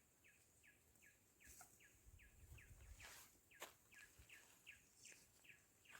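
A bird calling faintly and over and over: short chirps, each falling in pitch, about two to three a second, with a few faint clicks in between.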